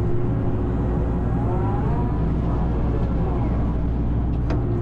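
Excavator diesel engine running steadily, heard from inside the cab, with faint rising and falling hydraulic whine in the middle and a single sharp click near the end.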